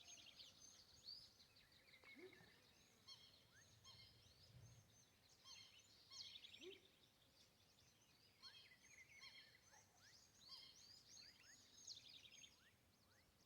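Faint chorus of wild animal calls: many overlapping high-pitched chirps, short sweeps and rapid pulsing trills.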